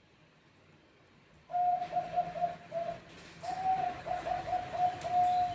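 Zebra dove (Bangkok perkutut) cooing in its staccato song. About one and a half seconds in, a run of short quick coos starts, then there is a brief pause, then one longer coo followed by another string of quick notes.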